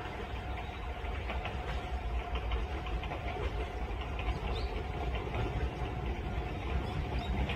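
Kintetsu electric train approaching from a distance: a steady low rumble with a thin steady hum, growing slightly louder.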